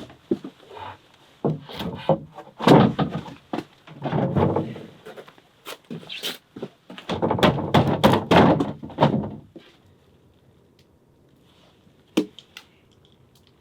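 Timber being handled and fitted: clusters of wooden knocks and thuds with short scraping rubs, then a lull broken by one sharp knock near the end.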